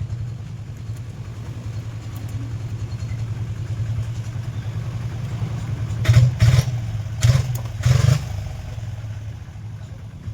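Maruti Alto 800's small three-cylinder petrol engine running steadily, with a few short louder bursts around six to eight seconds in.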